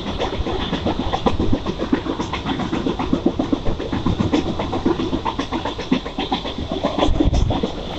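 Mumbai suburban local train running along the track, heard from on board: a continuous rumble with a rapid clatter and rattle of wheels on rails.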